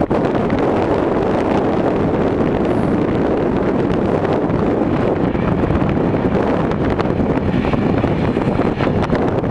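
Blizzard wind buffeting the microphone: a steady, loud rushing with no clear engine tone standing out.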